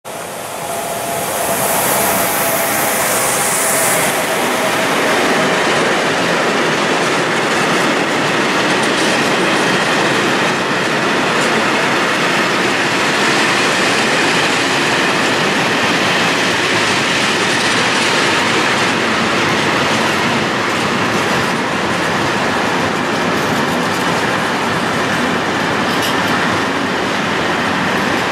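Freight train of covered hopper wagons rolling past close by: a steady rumble and clatter of wheels on the rails, with a thin, high wheel squeal from the curve running under it.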